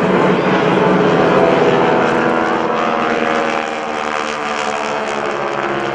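Propeller planes' 600-horsepower Pratt & Whitney radial engines, on vintage North American SNJ-2 trainers, run loud as the planes fly past overhead. Their pitch falls steadily through the middle as they pass.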